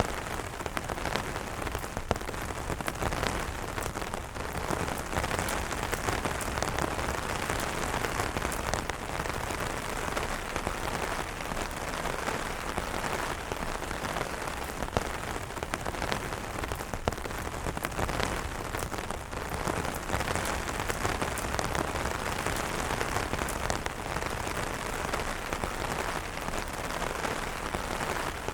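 Steady moderate rain falling on umbrella fabric: a dense, even hiss of drops with many distinct close-up drop hits, a few of them louder.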